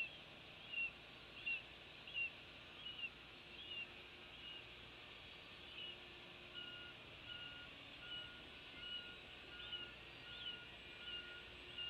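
A bird's short, high chirp repeated steadily, about three every two seconds. From about halfway, a vehicle reversing alarm beeps evenly under it.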